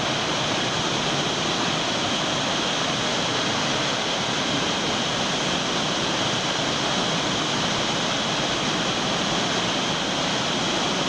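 Waterfall, a steady roar of falling water, loud and unbroken.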